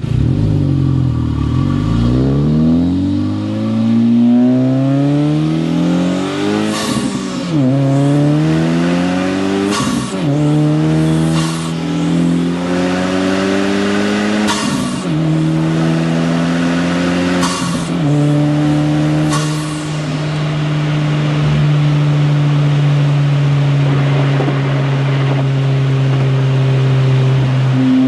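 Modified Honda Civic Type R FL5's turbocharged 2.0-litre four-cylinder with an aftermarket exhaust, accelerating hard through the gears: the engine pitch climbs and drops sharply at about four upshifts, with short hissy bursts around several shifts. It then settles to a steady cruise for the last ten seconds or so.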